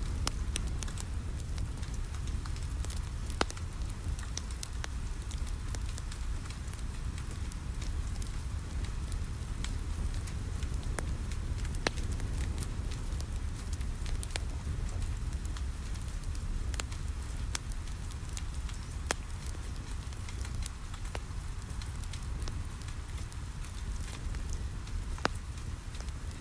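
Wood fire crackling, with scattered sharp pops over a steady low rumble, and a soft hiss of rain.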